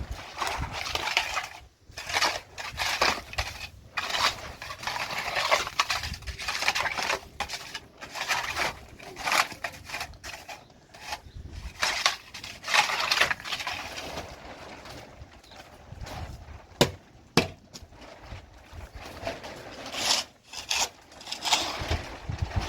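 Irregular rustling and scraping from objects being handled and rubbed together, with two sharp knocks about half a second apart a little past the middle.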